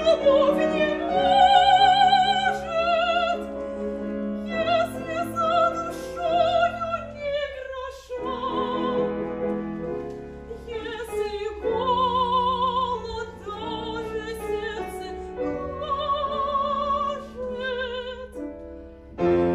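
Operatic singing with a wide vibrato over piano accompaniment, in phrases of long held notes with short breaks between them.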